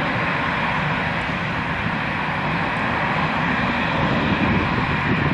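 Airbus A340-600's four Rolls-Royce Trent 500 jet engines at takeoff power, a steady jet noise growing slightly louder near the end.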